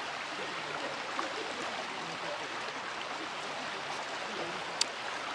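River water rushing steadily past, an even noise of flowing water, with one short sharp click near the end.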